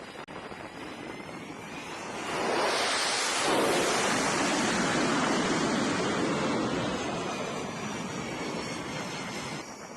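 Jet aircraft passing: a rushing roar that swells quickly about two seconds in, peaks, then fades away slowly before cutting off near the end.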